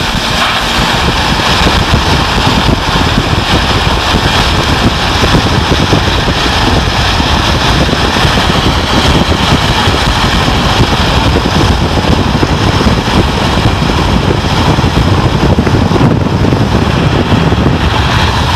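Loud, steady noise inside a moving car driving through heavy rain: rain on the roof and windshield mixed with road and wind noise.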